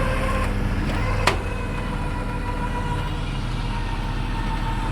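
A vehicle engine running steadily during a recovery pull, with a whine over it that steps down about half a second in. A single sharp click comes at about a second in.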